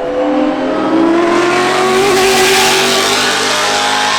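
A performance car's engine revving hard as it accelerates up the hill-climb course, its note rising in pitch, loudest about two to three seconds in as it passes.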